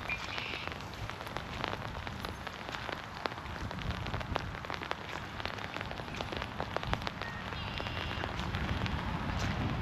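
Heavy rain falling through forest trees, a steady hiss full of individual drops striking close by. A bird calls briefly near the start and again near the end.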